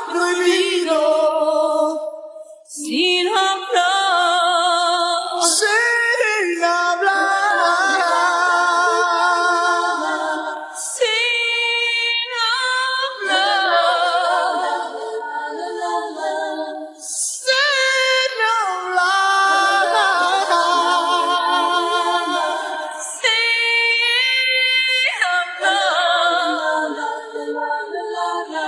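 A singing voice with no instruments, isolated from a song's mix, singing long phrases of held notes with vibrato, separated by short breaths.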